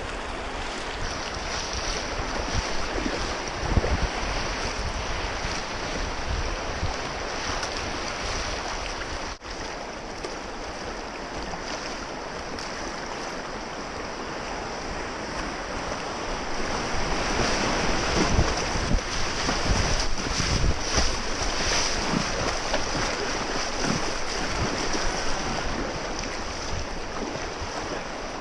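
Rushing river water around a kayak, with wind buffeting the microphone; the water grows louder a little past halfway through.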